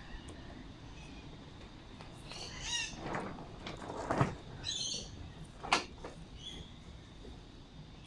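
Birds calling, a few short warbling chirps about three and five seconds in. Two sharp clicks come at about four and six seconds, the second the loudest sound.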